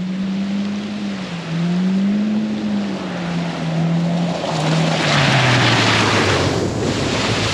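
Polaris RZR Pro R side-by-side's four-cylinder engine running, its pitch rising and falling with the throttle and then settling lower. A loud rushing noise builds over it about five seconds in and fades near the end.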